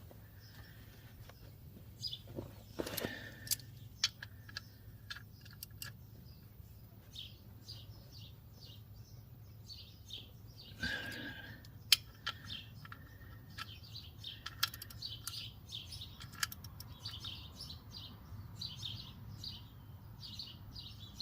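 Small birds chirping in quick, repeated short calls, more and more densely after the first few seconds. Scattered sharp clicks and knocks of a socket wrench being worked on a bolt break in; a single click about twelve seconds in is the loudest sound.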